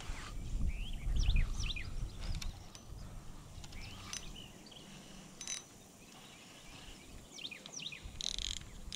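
Small birds chirping on and off, in short quick calls that bend up and down in pitch, over a low rumble in the first two or three seconds.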